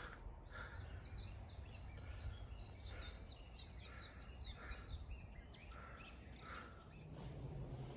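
A bird singing a rapid series of short, repeated high chirps, about four a second, for about five seconds, then stopping.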